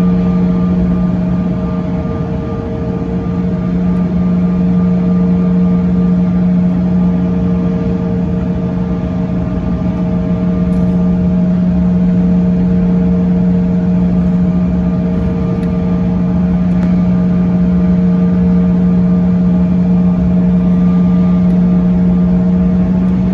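Steady engine drone heard from inside a vehicle, with a constant low hum and fainter higher tones that hold unchanged throughout.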